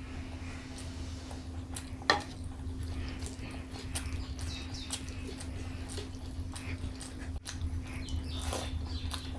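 Close-miked eating sounds: wet chewing and mouth clicks in short scattered bursts, with one sharp click about two seconds in, over a steady low electrical hum.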